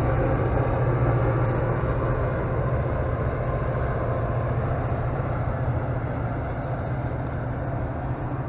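MBTA diesel commuter train rolling past with a steady low rumble of engine and wheels on the rails, slowly growing fainter.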